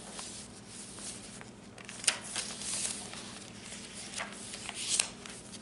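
Paper pages of a handmade journal being turned and handled: soft rustling with a few sharp flicks, the clearest about two seconds in and again near the end, over a faint steady hum.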